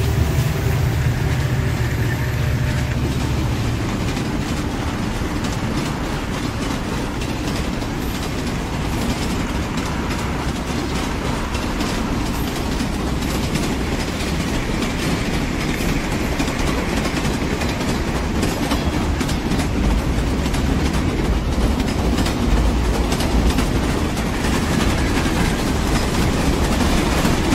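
Train rolling along the track: a steady rumble with the clickety-clack of wheels over the rails, the rumble getting heavier in the last third.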